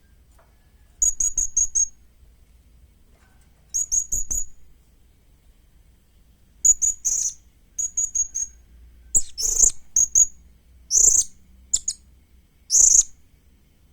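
Young blue-crowned hanging parrot (serindit) calling: bouts of several quick, high-pitched chirps, with short pauses between them that get shorter in the second half.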